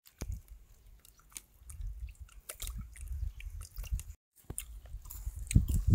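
A person eating, chewing and biting with small wet clicks of the mouth. The sound drops out briefly just after four seconds in.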